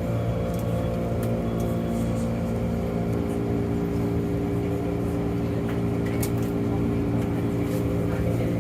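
Inside a Keikyu 1500 series electric train car: a steady electrical hum made of several level tones from the field-chopper-controlled traction equipment, over a running-noise background, with a few faint clicks.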